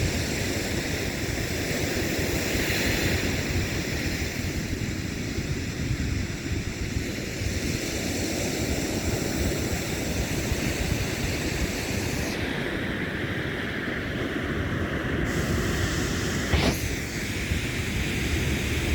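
Ocean surf washing continuously, with wind buffeting the microphone, and a brief sharp sound near the end.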